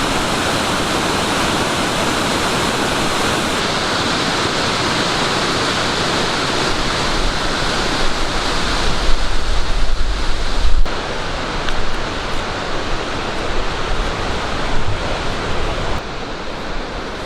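Waterfall rushing: a loud, steady hiss of falling water whose character changes abruptly a few seconds in and again about two-thirds of the way through. Gusts of wind buffet the microphone in the middle.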